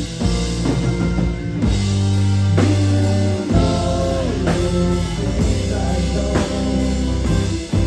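Live rock band playing an instrumental passage: drum kit hits over sustained low bass notes, with guitar lines that bend in pitch.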